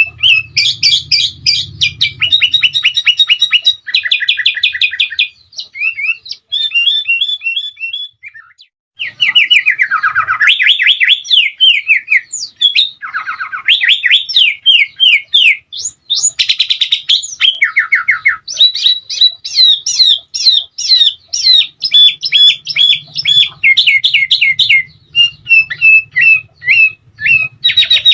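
Sooty-headed bulbul (kutilang) singing a long, fast series of chirps and rapid trills, with short pauses about a third of the way in. A faint low hum lies under the start and the end.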